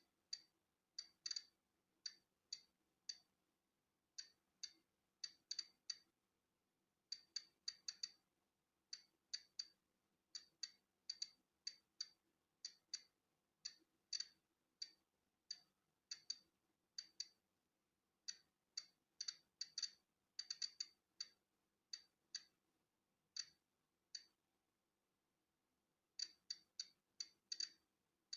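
Polon EKO-C digital Geiger counter clicking at random, uneven intervals as it counts natural background radiation. The sharp, high-pitched clicks come singly and in small clusters, with a gap of about two seconds near the end.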